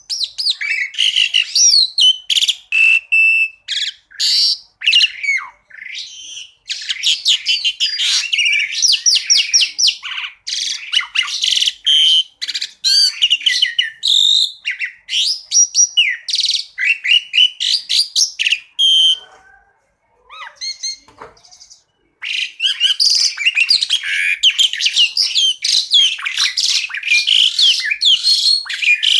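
Jalak suren (pied starling) singing a long, varied song of rapid chirps, whistles and trills, with a brief lull about twenty seconds in before the song picks up again.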